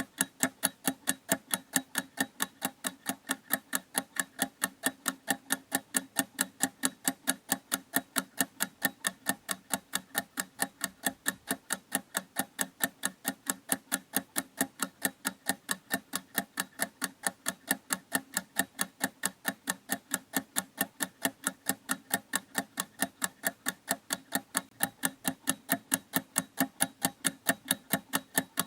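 Clock ticking steadily, with sharp, even ticks several times a second in an unbroken rhythm.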